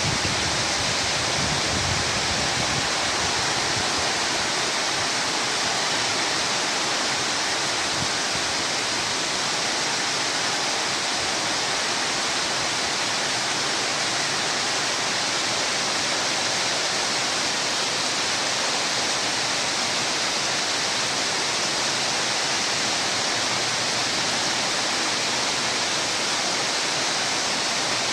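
Heavy rain pouring down in a steady, dense hiss, with a few low rumbles of wind on the microphone in the first few seconds.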